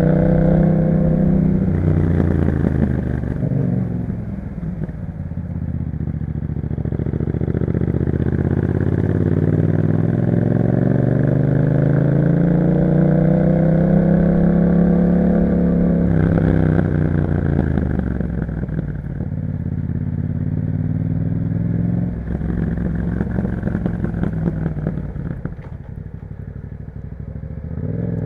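Yamaha MT-07's 689 cc parallel-twin engine through an aftermarket Akrapovic exhaust, under way. The revs fall over the first few seconds, climb steadily to a peak about halfway, drop away again, then rise once more near the end.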